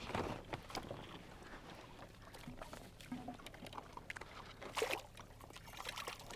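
Water splashing and scattered small knocks as a hooked kokanee salmon thrashes at the surface beside a kayak, with the loudest splash about five seconds in.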